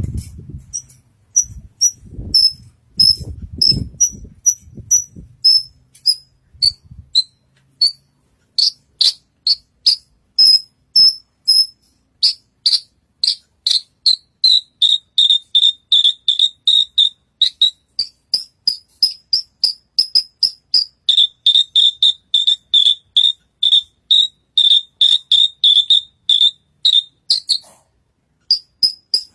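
Javan bush lark (branjangan) singing hard: a long run of short, sharp, high chirps repeated several times a second, like an insect's trill. A few low knocks and rustles come in the first several seconds.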